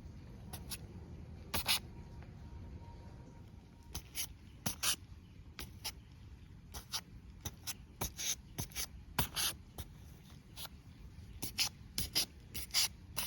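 A series of short, irregular scraping strokes, like something being rubbed or scraped. There is a brief pause a couple of seconds in, and the strokes come faster and closer together near the end.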